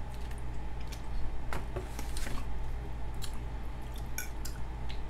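Close-up chewing and wet mouth sounds of a person eating food taken from a spoon, coming as irregular short clicks.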